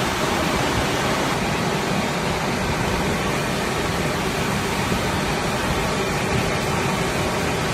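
Automatic car wash drying blowers running, blasting air over the car: a loud, steady rush of air.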